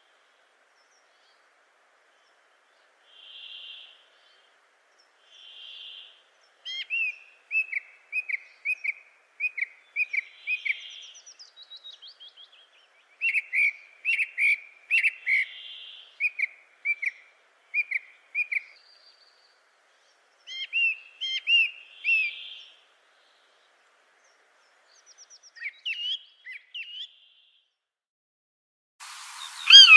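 Birds calling: a soft whistled note repeats every few seconds while another bird sings runs of quick chirps. A hiss comes in near the end.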